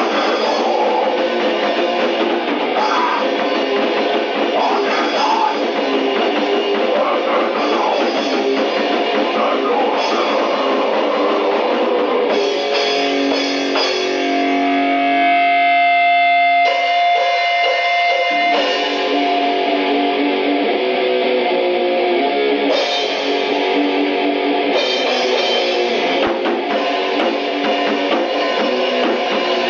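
D-beat raw punk demo recording: distorted electric guitar and fast drums playing hard. About halfway through the band thins out to a few ringing guitar notes for several seconds before the full band crashes back in.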